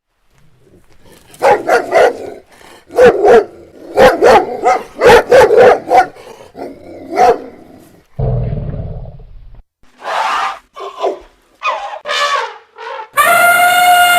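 An animal giving a rapid series of short, loud calls, with a brief low rumble partway through and more calls after it; a long wavering wail begins near the end.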